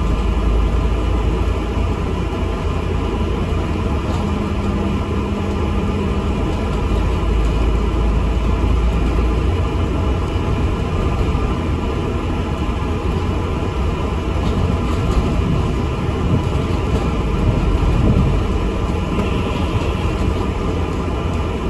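ADL Enviro 400 MMC double-decker bus under way, heard from inside: a steady low rumble of engine and road noise.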